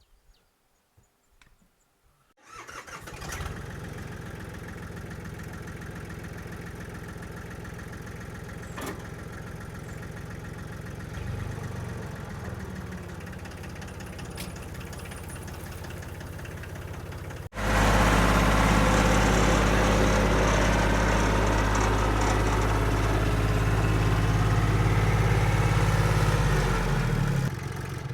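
Yanmar FX20D compact tractor's diesel engine starting up about two seconds in and running steadily; it becomes abruptly much louder later on, then slows and dies away near the end.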